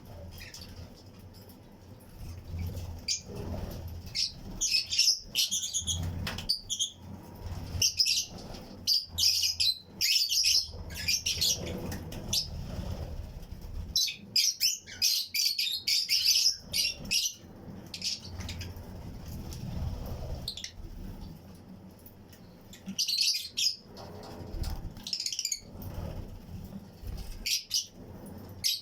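A colony of Fischer's and lutino lovebirds chirping in an aviary: high, rapid chirps coming in bursts, with quieter stretches between.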